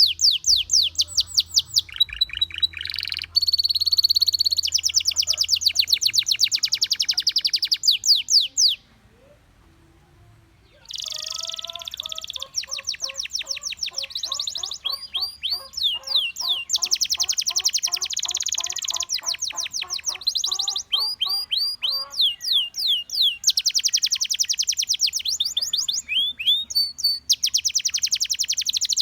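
Gloster canary singing in long, fast trills of repeated high chirps and rolling notes. It stops for about two seconds roughly a third of the way in, then starts again.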